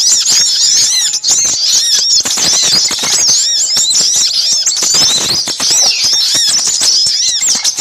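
Bird-lure recording of many small birds calling at once: a dense, unbroken chatter of high, arched chirps overlapping one another, mixing noisy sogok ontong (spiderhunter) calls with sepah raja calls.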